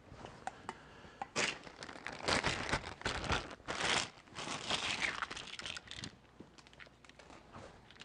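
Packaging crinkling and tearing as it is handled, in a run of rustling bursts lasting about four and a half seconds, with a few light clicks before and after.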